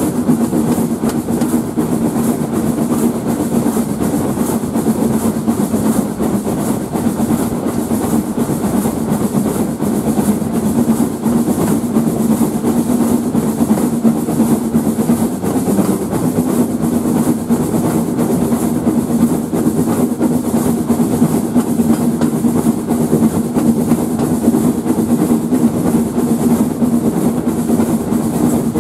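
Steam-hauled train running at speed, heard from an open carriage window just behind the locomotive: a loud, steady rumble and rush of wheels on the rails.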